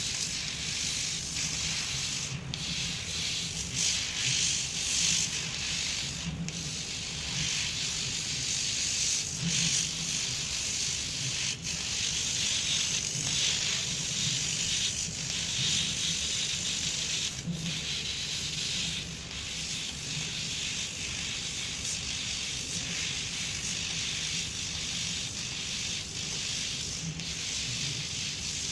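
CNC engraving machine running and cutting: a steady, rattly hiss with a low rumble underneath, broken by brief dips or clicks every few seconds.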